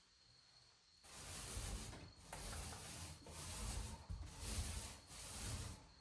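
Repeated rubbing strokes against a surface, about one a second, starting about a second in.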